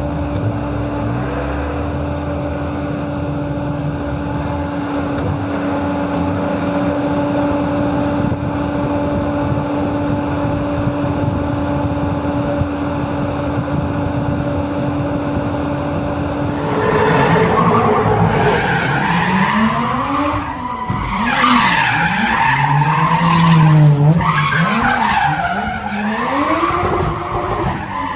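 Drift car engine held at steady high revs with tyres skidding. From about sixteen seconds in, engines rev up and down over and over as the tyres squeal through the drift.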